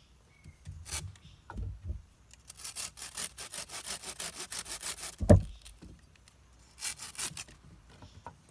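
Hand saw cutting wood in quick back-and-forth strokes for a few seconds, then a heavy thud, then a short second run of strokes. A few lighter knocks come before the sawing.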